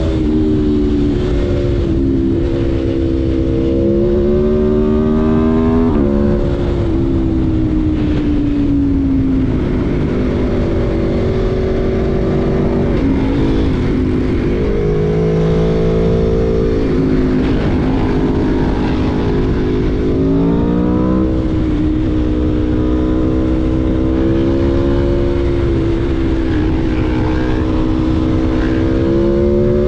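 Aprilia Tuono V4 1100's V4 engine under way. Its revs climb, drop sharply at each gear change and fall away as it slows, over a steady rush of wind noise.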